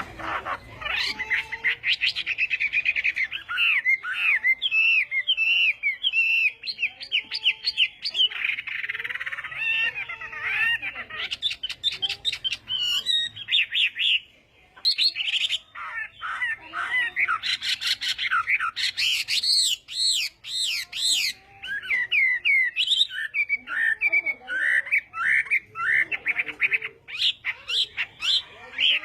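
Chinese hwamei singing a long, rapid song of varied whistled phrases, with a brief pause about halfway through.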